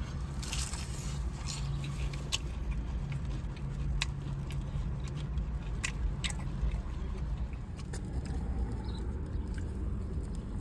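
Chewing on a crispy fried chicken wing, with scattered sharp crunches over a steady low hum.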